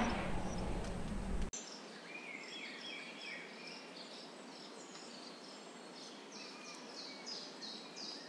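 Small birds chirping in forest ambience: quick series of short, high chirps, two or three a second, over a soft hiss. For the first second and a half a fuller outdoor background noise plays, then cuts off abruptly.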